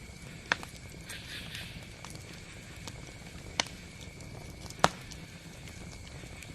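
Campfire burning with a steady low rumble and small crackles, and three sharp pops standing out, the loudest about five seconds in.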